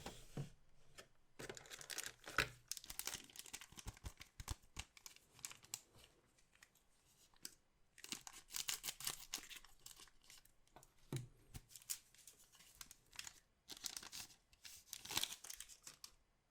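Card-pack packaging being torn open and crinkled by hand, in three spells of tearing and rustling with small clicks and handling noises between.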